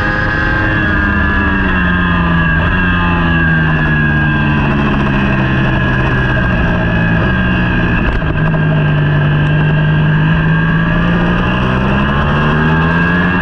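Superbike engine heard onboard at fairly low revs, its pitch falling smoothly over the first several seconds as the bike slows, holding low, then rising again near the end as it picks up speed.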